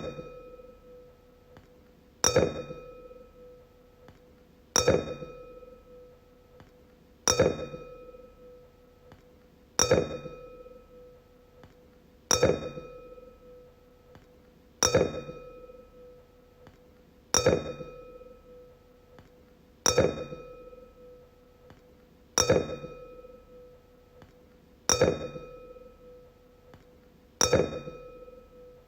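A wine glass struck again and again, about once every two and a half seconds, eleven times. Each strike rings out with a clear tone and higher overtones that fade away over a second or two before the next.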